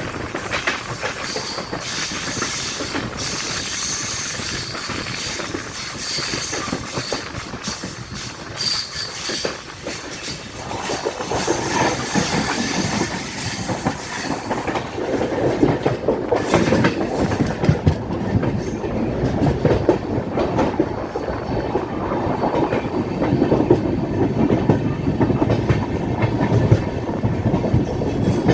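Swaraj Express passenger train running, its wheels clattering over rail joints in a steady run of clicks. The rumble grows louder about ten seconds in.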